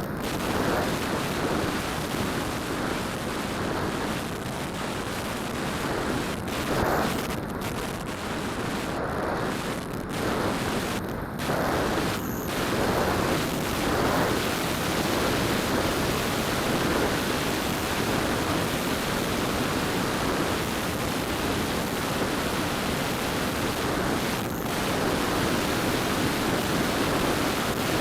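Steady rushing noise of wind and spinning rotors picked up by a keychain camera mounted on a Phantom quadcopter in flight.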